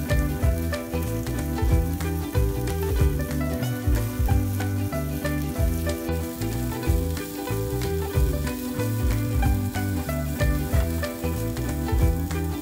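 Sliced onions sizzling in a non-stick frying pan as a wooden spatula stirs and scrapes them, under background music with a stepping bass line.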